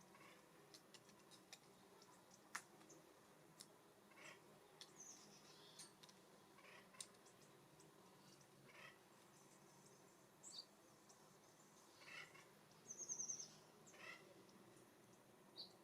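Faint chirps and high call notes from small birds, scattered through, with a quick run of high notes about three-quarters of the way through. Light ticks and taps sound between the calls.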